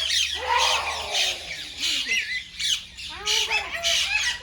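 Many parrots calling at once: a dense run of short, overlapping squawks and chirps.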